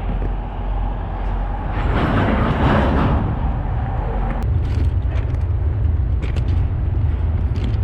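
Steady low rumble of a freight train in motion, with a rushing swell about two seconds in and a few brief high-pitched clicks or squeals in the second half.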